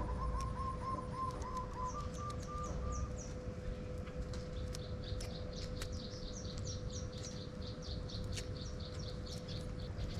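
Small birds calling: a quick series of short, evenly repeated notes in the first three seconds, then rapid, high, falling chirps for the rest, over a steady hum and low rumble.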